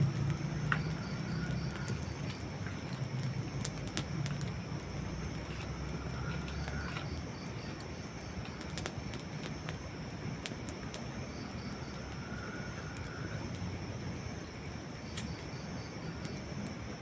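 Wood fire crackling, with scattered sharp pops and snaps over a steady hiss. A low rumble sits under it for the first half, and a faint high call recurs every few seconds.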